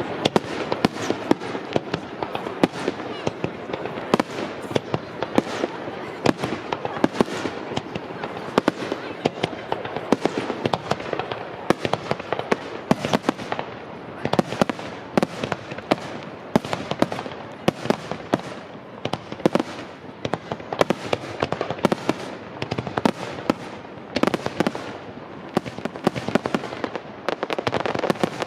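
Aerial fireworks display: shells bursting in a rapid, continuous barrage of sharp bangs, several a second, with crackling between them.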